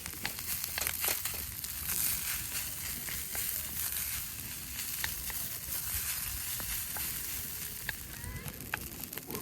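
Food sizzling in a frying pan over a wood campfire, a steady hiss with scattered sharp crackles and clicks.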